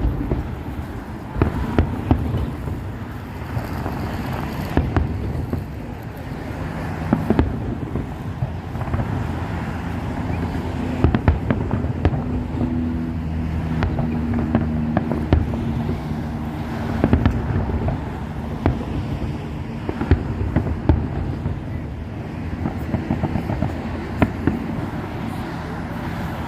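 Fireworks display going off: many irregular sharp bangs and crackles over a continuous low rumble.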